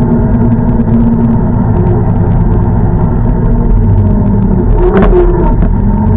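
Minneapolis Moline G900 LP tractor engine running steadily under way, with light rattling clicks and a brief louder noise about five seconds in.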